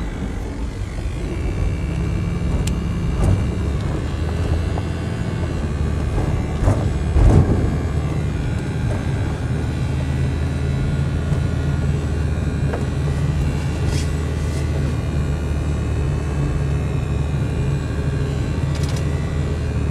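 A tour vehicle's engine and road noise heard from inside the cabin while driving, a steady low hum, with a brief louder bump about seven seconds in.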